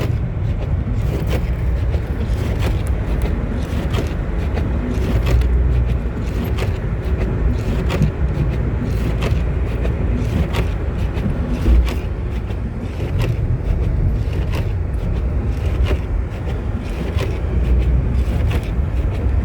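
Car driving on snowy roads, heard from inside the cabin: a steady low rumble of engine and tyres, with frequent short knocks and clicks.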